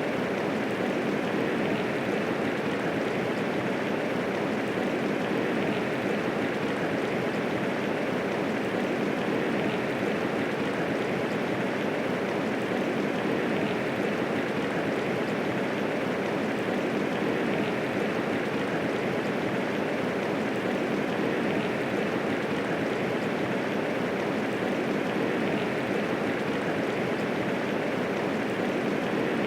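Medium rainfall, a steady, even hiss of many drops with no thunder.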